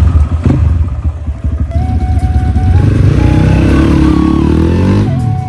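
Dirt bike engine running loud and being revved, its pitch rising and falling partway through.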